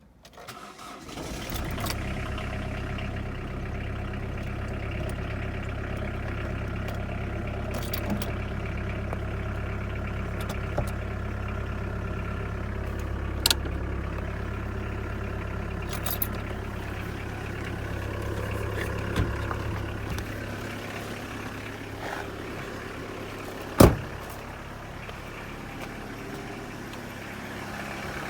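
Opel Astra engine starting and then idling steadily, its sound fading up over the first second or two. The idle drops slightly lower and quieter about twenty seconds in. A sharp click sounds near the end.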